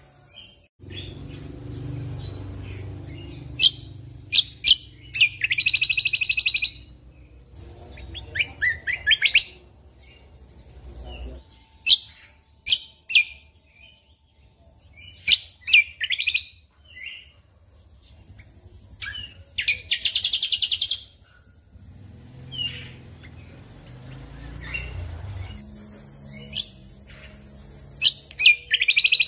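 Cucak kombo (kecial kombok) songbird singing: short fast trilled phrases of about a second each, repeated several times, with sharp single chip notes in between. A low rumble runs under the song for roughly the first eleven seconds and again in the second half.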